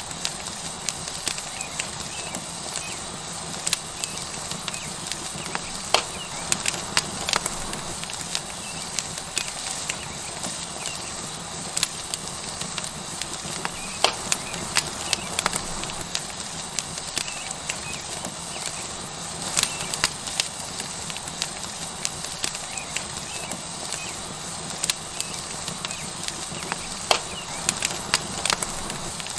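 Tomahawk steak sizzling on a hot rock over a wood fire: a steady hiss with frequent, irregular sharp crackles and pops from the burning wood and spitting fat.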